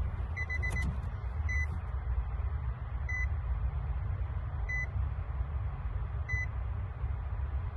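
Nissan car engine idling with a steady low rumble after warm-up, while an electronic beeper sounds: a quick run of four short beeps about half a second in, then single beeps evenly about every second and a half.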